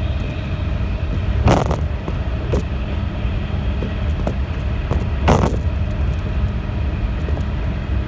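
Running noise inside a JR 211 series electric train travelling through a tunnel: a loud, steady low rumble with faint steady tones above it. Twice, about four seconds apart, it is broken by a short, sharp burst of rattling noise.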